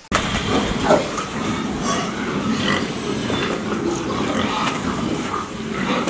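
Many pigs grunting and squealing together in a dense, steady din, which cuts in abruptly right at the start.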